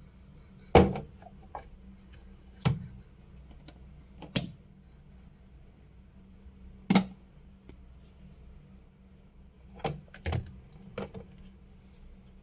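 A series of sharp knocks and clacks of containers and jars being set down and moved on refrigerator shelves. There are about seven of them, spaced a second or more apart, the loudest about a second in and about seven seconds in, over a low steady hum.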